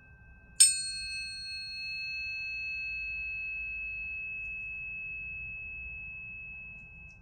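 Planetary tuning fork struck about half a second in: a bright metallic ding whose high overtones die away within a few seconds, leaving one steady high tone that slowly fades. A second, fainter fork tone rings steadily underneath.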